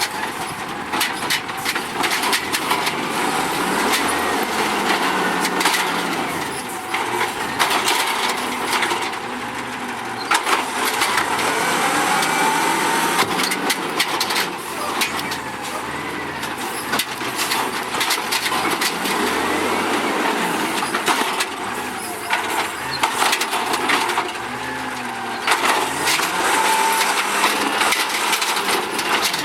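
Automated side-loader garbage truck at work, its engine and hydraulics running while trash is dumped and packed. Many sharp knocks and cracks come through, with a whine that rises and falls.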